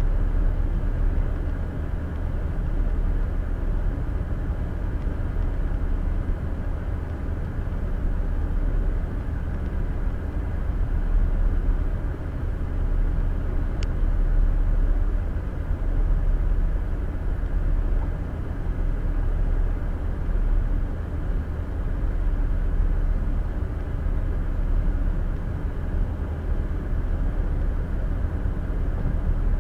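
Steady low road and engine noise of a car cruising at highway speed, heard from inside the cabin through a windshield-mounted dash cam's microphone.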